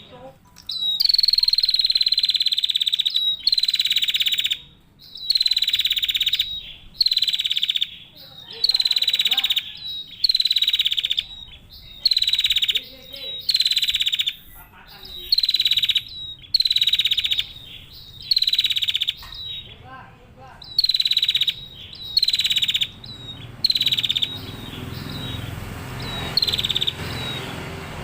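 Female prenjak (prinia) calling over and over: a series of short, rapid buzzy trills, each opening on a high note, repeated about every second. The trills stop near the end, leaving a faint steady background hum of insects.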